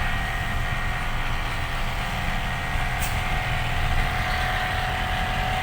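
Truck engine running steadily with road noise while driving, a constant low rumble with a faint steady whine above it.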